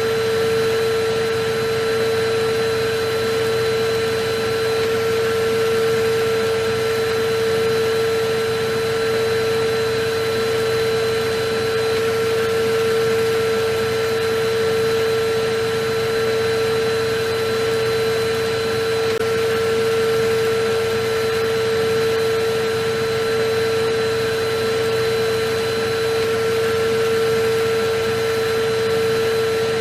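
Electric vacuum cleaner running steadily: an even rushing noise with a constant motor whine that never changes in pitch or loudness.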